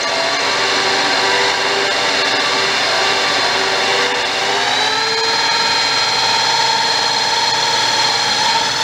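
Power drill driving a small hole saw into a wooden support, the motor whining steadily under load. Its pitch rises somewhat about halfway through and then holds.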